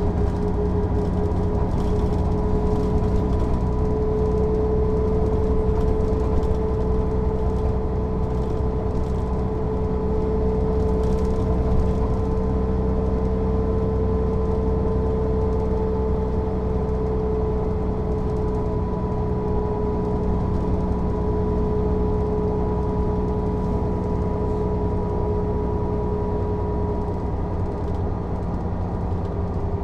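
Mercedes-Benz O 407 city bus under way, its diesel engine and driveline running at a steady cruise. The whine rises a little and then eases off again, as the road speed changes slightly.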